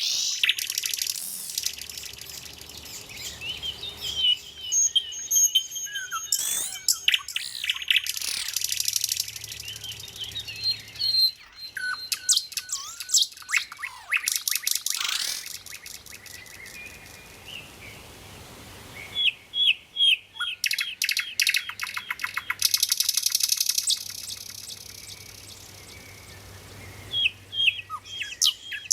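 Nightingale singing a varied song of whistles, rapid runs of repeated notes and trills, in phrases broken by short pauses.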